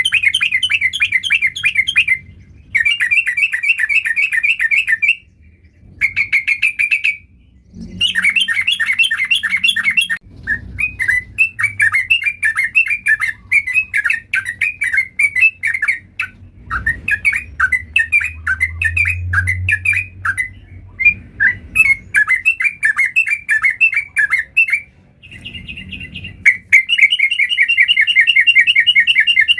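Yellow-vented bulbul (trucukan) singing a fast, chattering song. The rapid notes first come in bursts of about two seconds with short breaks, then run on almost without a break from about ten seconds in.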